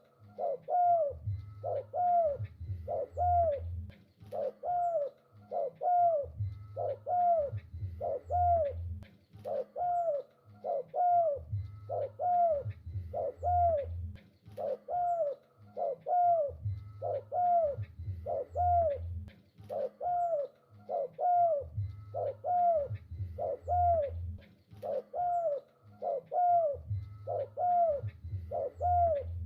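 Spotted dove cooing over and over: short arched notes repeat about one and a half times a second, with deeper coos in groups every few seconds.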